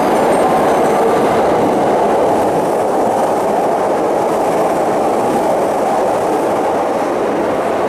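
Electric commuter train running along the station platform: a steady, loud rumble of wheels on rail that fades slightly toward the end.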